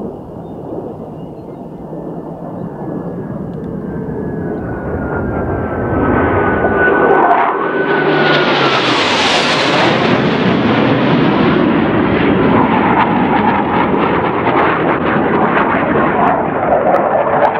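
Blue Angels F/A-18 Hornet jets making a low pass: the jet roar builds over several seconds to its loudest about nine seconds in, with an engine whine that drops in pitch as the jets go by, and a second falling whine near the end.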